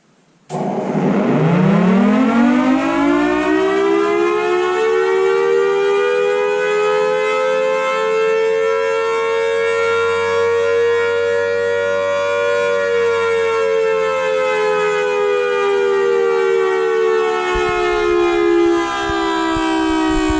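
Outdoor warning siren with a directional horn starting up about half a second in, its pitch climbing steeply over the first couple of seconds, then rising slowly to a peak and slowly falling again as it sounds loudly and steadily.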